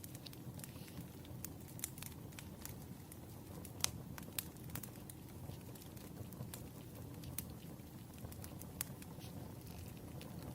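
Stationery handling on a desk: scattered small clicks and taps of pen and paper, with one sharper click about four seconds in, over a low steady hum.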